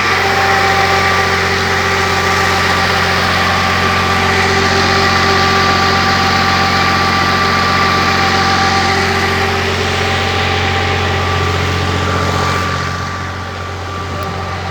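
Old Fiat tractor's diesel engine running steadily under load while it drives a tube-well turbine water pump. The sound drops slightly about thirteen seconds in.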